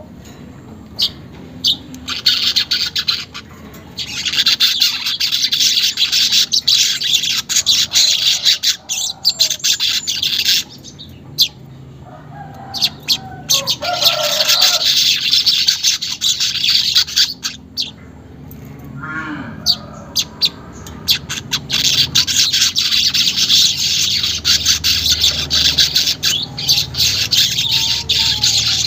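Manyar weaver birds chattering in long bouts of fast, high twittering, each lasting several seconds with short breaks between, and a few lower notes in the pauses.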